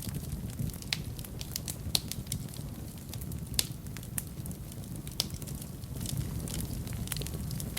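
Wood fire burning in a fireplace: a steady low rumble of the flames with irregular sharp crackles and pops, a few louder pops about 2 and 3.5 seconds in.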